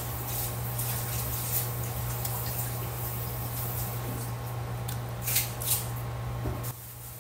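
A person chewing soft boiled yam, with wet mouth clicks and smacks, two sharper ones a few seconds in. A steady low hum runs underneath and cuts off suddenly near the end.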